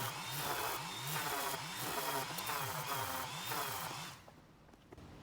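Electric power-tool motor running under changing load, its pitch repeatedly dipping and recovering, then stopping about four seconds in.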